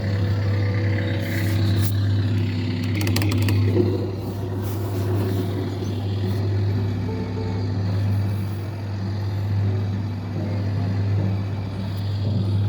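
Red Tractor coin-operated kiddie ride running mid-ride, a steady low vehicle-like drone with a few sharp clicks about three seconds in.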